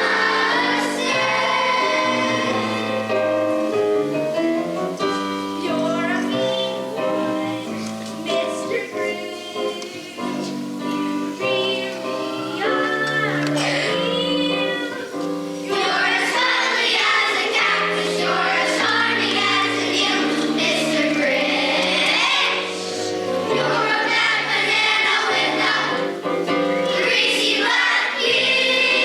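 School choir singing a song in several voice parts, with sustained notes that shift chord to chord.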